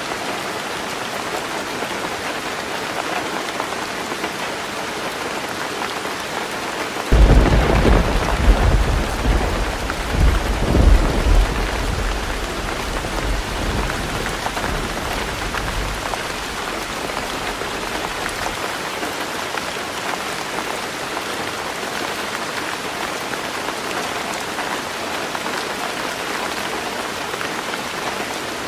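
Heavy rain falling steadily on a roof. About seven seconds in, a sudden crack of thunder breaks into a deep rolling rumble that pulses for several seconds before fading back into the rain.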